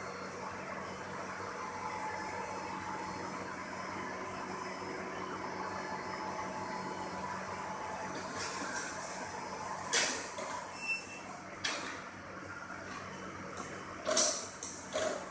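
Robot vacuum cleaner running with a steady whir, with a few sharp knocks in the last five seconds.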